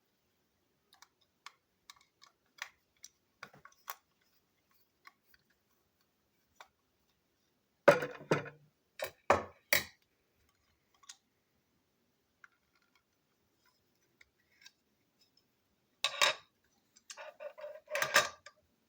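Plastic toy train parts being handled: scattered light clicks, then two bursts of clattering knocks, about eight and sixteen seconds in, as pieces are knocked and snapped together.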